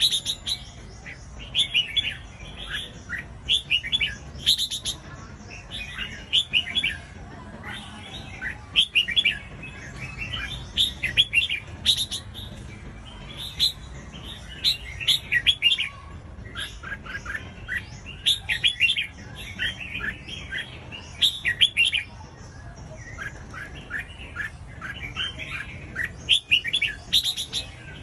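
Red-whiskered bulbul singing: short phrases of quick, bright chirping notes, one phrase after another every second or two.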